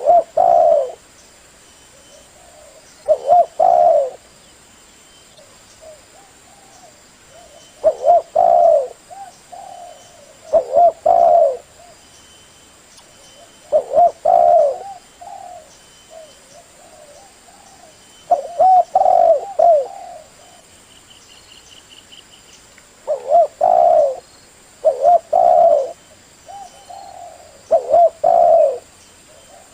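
Male spotted dove (tekukur) cooing, its song repeated in short phrases every two to three seconds.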